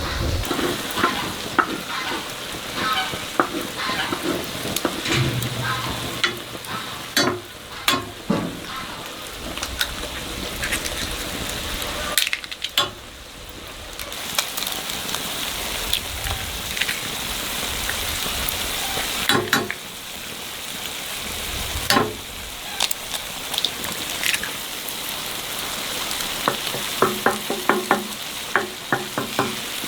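Food sizzling as it fries in a pan, with scattered clicks and knocks of a utensil stirring or scraping.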